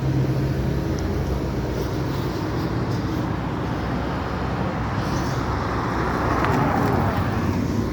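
Street traffic noise: a steady low rumble of passing vehicles, swelling a little about six seconds in.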